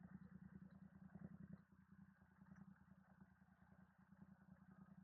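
Motorcycle engine running faintly, a low steady pulsing hum.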